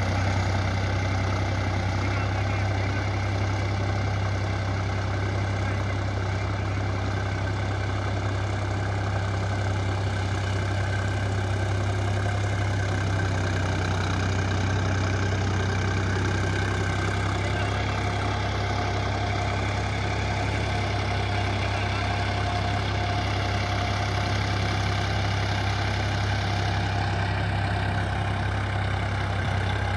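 Preet 955 tractor's diesel engine running steadily, a constant low hum that holds an even level throughout.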